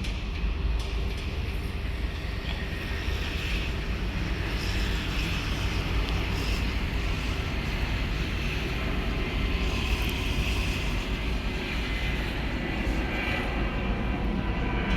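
Passenger train running: a steady low rumble with a rushing noise that holds even throughout.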